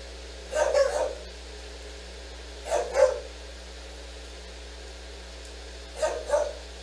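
A dog barking in quick pairs of barks: three pairs, a few seconds apart.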